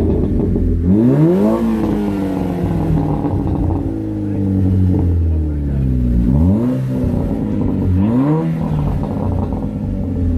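VW turbo engine blipped three times through a custom exhaust whose silencer has had most of its packing taken out. The pitch rises sharply about a second in, again about six seconds in and again about eight seconds in, each time falling back toward idle.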